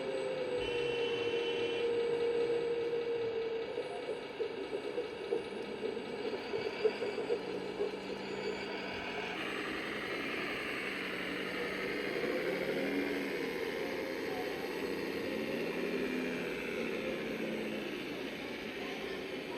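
Scale RC model tractor or truck running, its onboard electronic sound module playing a steady engine sound with small rises and falls in pitch. About halfway through, a brighter hiss joins it.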